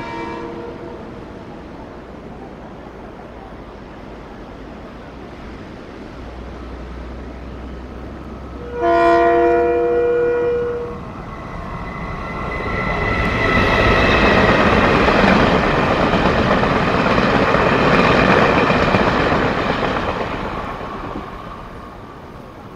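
Taiwan Railway locomotive hauling a tourist train sounds its horn, a short blast at the start and a louder one of about two seconds around nine seconds in. The train then passes, its wheels running on the rails, growing louder and fading away over about ten seconds.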